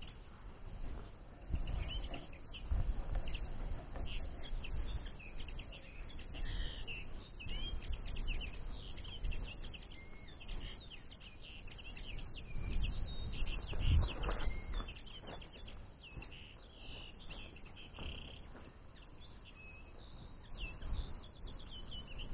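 Common linnets twittering in many short, high chirps, over low rustling and a louder thump about fourteen seconds in.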